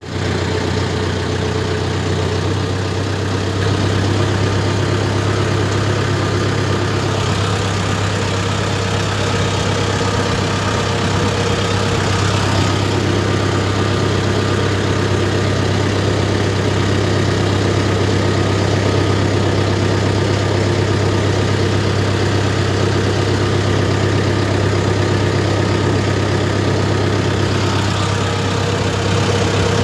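Mahindra tractor's diesel engine running steadily with a deep, even hum, rising slightly in level about four seconds in.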